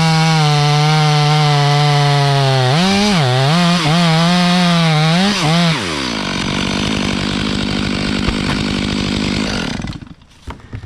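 Chainsaw running at full throttle and cutting wood, its pitch dipping and recovering a few times under load, then dropping off throttle about six seconds in. A lower running sound continues until it dies away near the end.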